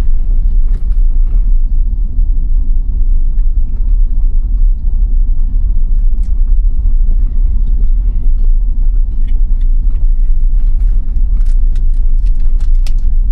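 Steady low road and tyre rumble of a 2021 Tesla Model Y driving on snow-covered roads, heard inside the cabin, with a few faint ticks near the end.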